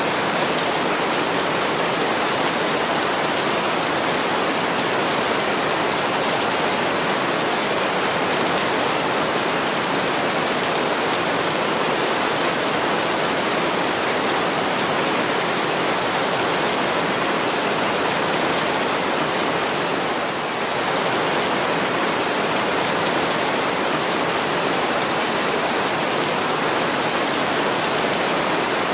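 Heavy rain falling steadily on a window, a dense even hiss with only a slight dip about twenty seconds in.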